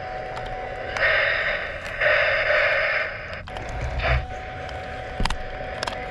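Battery-powered Lionel toy locomotive switched on for a test: a steady faint high hum, two bursts of hissing about one and two seconds in, a shorter burst near four seconds, and a few sharp clicks.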